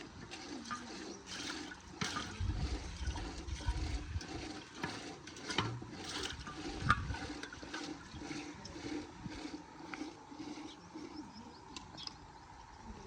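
Rain falling and splashing, with scattered drips and patters, and a low rumble a few seconds in.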